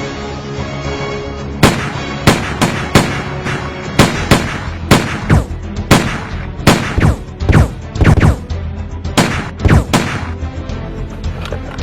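A string of about twenty gunshot sound effects, some in quick pairs, roughly two a second, starting near two seconds in and stopping about ten seconds in, over steady background music.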